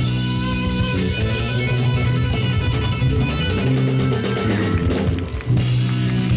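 Rock band playing live: loud distorted electric guitar chords over bass and drums in an instrumental passage, cutting off right at the end.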